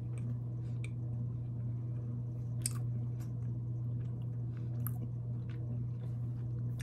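A person chewing a bite of dense chocolate protein brownie with her mouth closed, with small wet mouth clicks, the sharpest about two and a half seconds in and another near five seconds, over a steady low hum.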